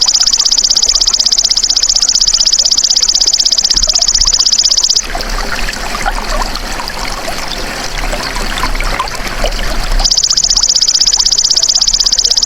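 Belalang emas insect singing a rapid, pulsing, high-pitched trill that stops about five seconds in and starts again near the end, over a steady trickle of running water.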